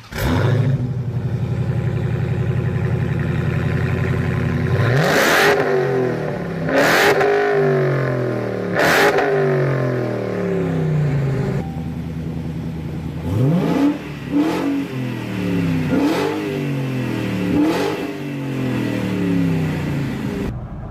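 Car engine idling, then revved in several short blips, each rising sharply in pitch and falling back to idle.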